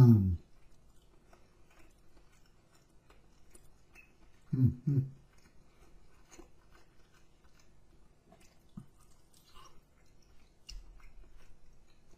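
A person chewing chicken wings close to the microphone: soft wet clicks and smacks of biting and chewing. There are two short hums with the mouth full, one at the very start and one about four and a half seconds in.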